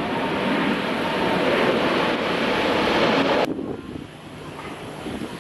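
Steady jet noise from a Boeing 777-300ER's two GE90-115B engines on takeoff. It cuts off abruptly about three and a half seconds in, leaving fainter wind noise on the microphone.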